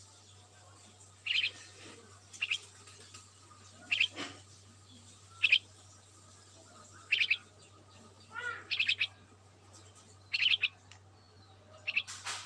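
Small birds chirping: short, high calls about every second and a half, some in quick runs of two or three notes, with a lower wavering call about two-thirds of the way through. A steady low hum runs underneath.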